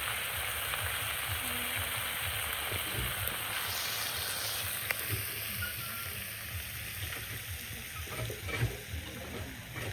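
Food sizzling as it fries in hot oil. The sizzle thins out after about five seconds, and a few light knocks follow near the end.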